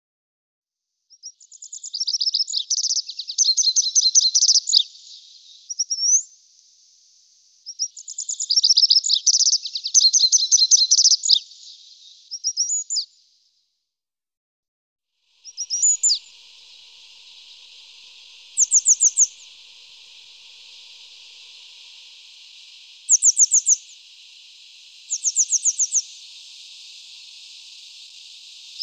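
Songbird singing two long, fast, trilling song phrases, then after a short pause a steady high hiss with short, high chirping trills every few seconds.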